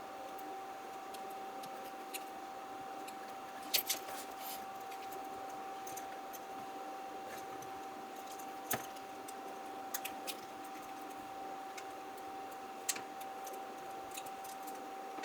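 Sharp clicks and taps of small tools and parts being handled during a phone battery replacement: a loud pair about four seconds in, then scattered single clicks. A faint steady whine runs underneath throughout.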